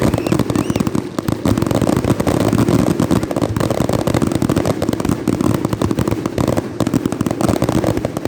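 Fireworks crackling: a loud, dense, rapid run of small sharp pops with no break, like a lit string of firecrackers.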